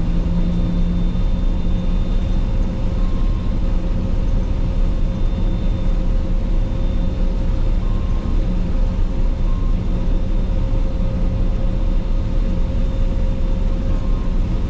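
Claas Lexion 480 combine harvester running steadily: a loud, even drone of engine and machinery with a few steady whining tones over it.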